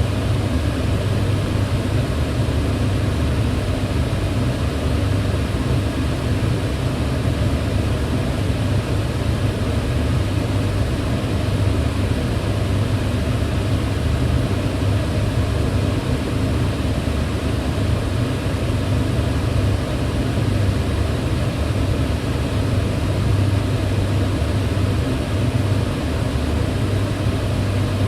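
Kitchen range hood fan running steadily: a continuous, unchanging rush of air over a low hum.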